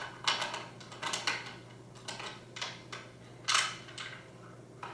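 Phillips screwdriver turning a screw out of a plastic vacuum-cleaner body, with irregular short clicks and scrapes, about two or three a second and one louder near the middle.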